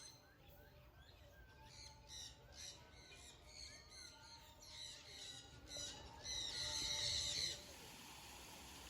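Many birds squawking and chirping in short repeated calls, with a louder burst of squawking about six to seven and a half seconds in, then a steady hiss.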